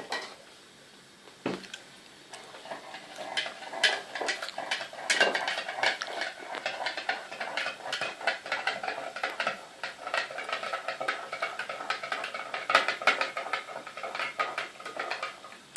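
A dessert spoon stirring salt into a glass of water, clinking rapidly and repeatedly against the glass, starting about two seconds in.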